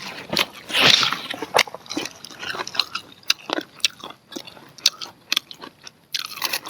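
Close-miked chewing and biting of grilled corn on the cob: irregular crunchy clicks of kernels being bitten off and chewed, with a louder burst about a second in.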